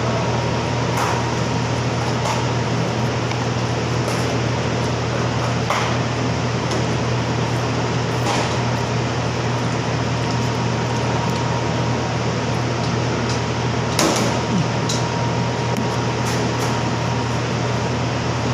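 Steady whirring machine noise with a low hum and a thin steady tone, unchanging throughout. A few light clicks are scattered through it, the loudest about fourteen seconds in.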